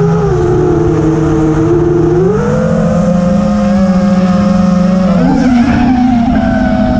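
The brushless motors and three-blade props of a 5-inch FPV racing quadcopter (Lumenier RX2206 2350KV motors), giving a loud, steady buzzing whine. The whine steps up in pitch about two seconds in as the throttle rises, and steps up again shortly before the end.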